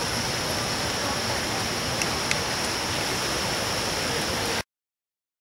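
Steady rushing noise that cuts off abruptly to silence about four and a half seconds in.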